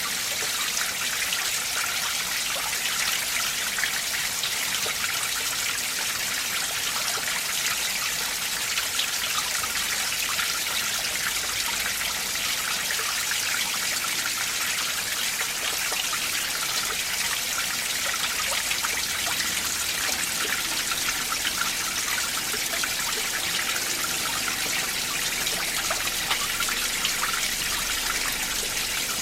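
Winter mountain stream running among ice over rocks: a steady rush of water with many small trickles and splashes, unchanging throughout.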